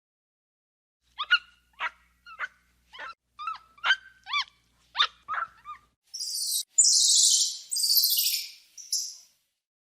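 Small dog yapping: about a dozen short, high-pitched barks in an uneven run, followed by four loud hissing bursts a little before halfway through.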